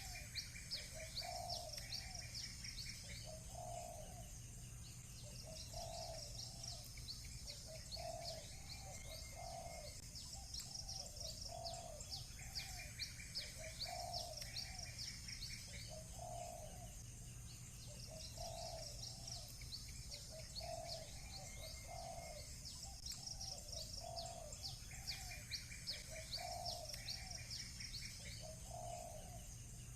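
Doves cooing over and over, mixed with small birds chirping and trilling rapidly and continuously. A steady low hum lies underneath.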